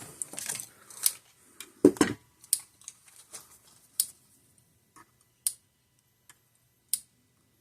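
Parmak Magnum 12 electric fence charger clicking about once a second as it fires its output pulses, the sign that the powered-up unit is working. A few fainter ticks fall between the pulses, and there is a louder knock about two seconds in.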